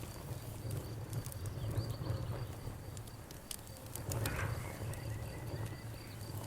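Wood fire crackling, with scattered sharp pops, over a steady high-pitched pulsing cricket chirp and a low hum from the burning.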